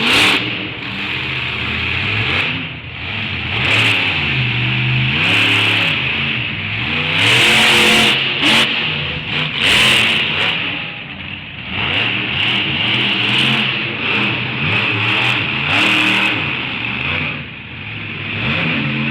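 Monster truck engine revving hard, its pitch rising and falling again and again, with short louder surges.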